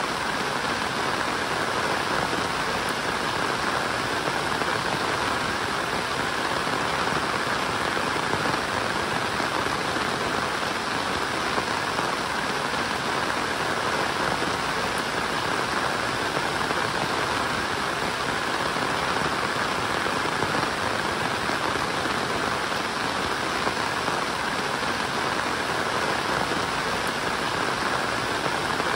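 Steady rain falling, an even, unbroken hiss of raindrops on the ground and surfaces.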